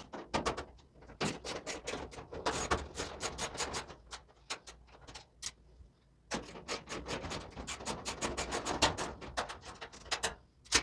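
Rapid, even clicking from a tool in two runs of a few seconds each, with a pause between, as the 5/16-inch screws holding the dryer's front panel are backed out.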